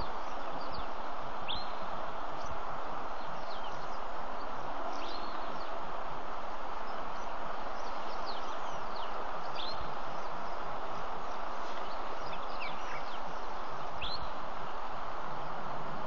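African bush ambience: a steady hiss with short, high, falling bird chirps scattered through it every second or two.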